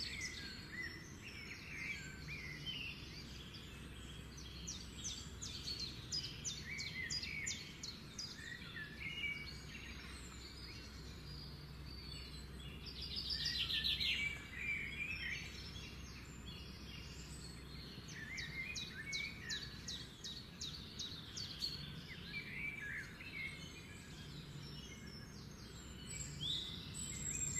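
Small birds chirping in short, high calls, with a louder, fast trill about halfway through, over a low steady hum.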